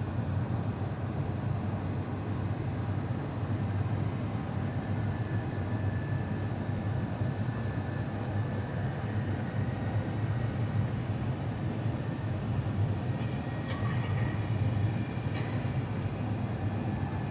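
Steady cabin rumble inside an Airbus A350-900 in flight with its engines and airflow at a constant level, heard from a forward seat. Two brief clicks sound near the end.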